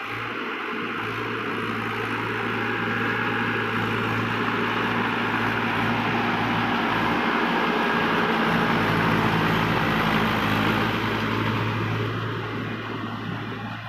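Mahindra 575 DI tractor's four-cylinder diesel engine running steadily, growing louder to a peak about ten seconds in and then fading toward the end.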